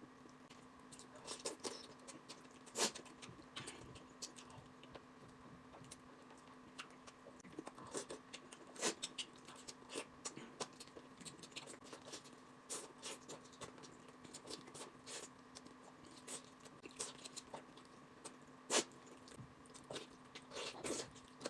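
A person chewing braised pork off the bone: faint, scattered mouth clicks and smacks, a few louder ones about 3, 9 and 19 seconds in, over a faint steady hum.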